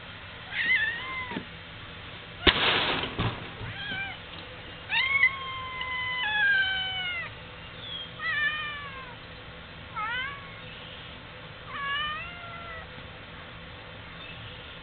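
Stray cat meowing repeatedly, about eight drawn-out meows, many falling in pitch toward their ends. There is a short burst of noise about two and a half seconds in.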